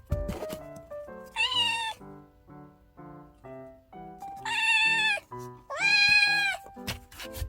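A Kinkalow (Munchkin × American Curl) kitten meowing three times, each meow high and drawn out, over light background music. There are a few short knocks near the start and again near the end.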